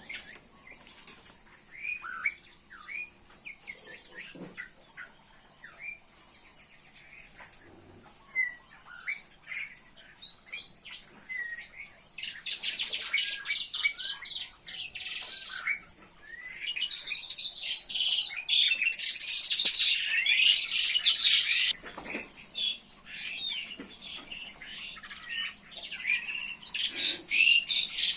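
Birds in an aviary chirping: scattered short, sliding chirps at first, then from about halfway a dense, loud, rapid high-pitched chatter that breaks off briefly and starts again near the end.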